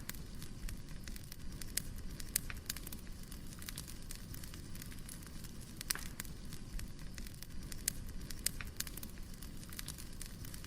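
Wood fire crackling: irregular sharp pops and snaps over the low steady rush of the burning logs.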